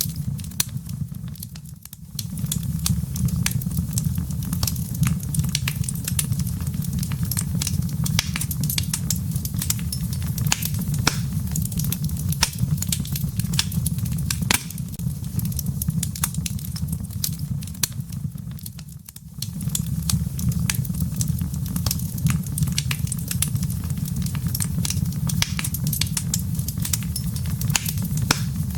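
Wood fire burning in a fireplace: a steady low rumble with many sharp crackles and pops from the embers. The sound dips briefly twice, about two seconds in and again around two-thirds of the way through.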